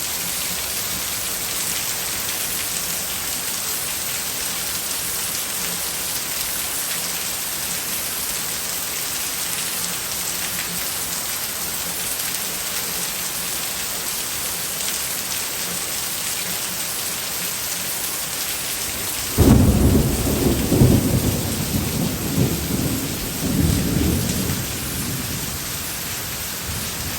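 Heavy tropical downpour hissing steadily. About two-thirds of the way through, a sudden loud thunderclap breaks in and rolls on as low rumbling in several swells for about five seconds before fading back under the rain.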